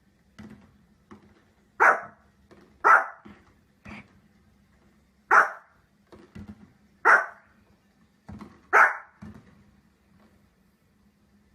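A dog barking in single, separate barks at an uneven pace, about five loud ones with quieter barks or yips in between.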